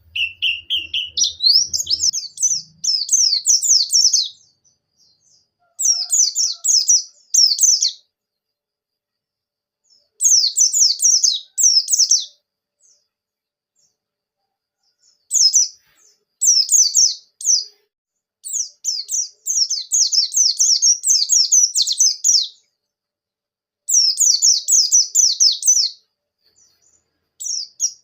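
White-eye (pleci) singing in repeated bursts of rapid, high twittering notes, each run lasting a few seconds, with short pauses between them.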